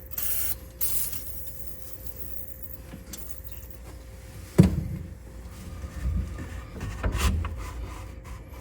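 Handling noises of dismantling work on an old pickup cab: two short scrapes near the start, a sharp knock about four and a half seconds in, then a few duller thumps, over a faint steady hum.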